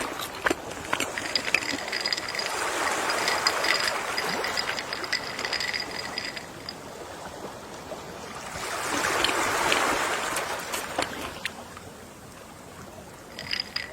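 Gentle ocean waves washing ashore, the surf swelling twice and fading back, with small clicks and fizzes throughout. A faint, high, pulsing tone sits over the first waves.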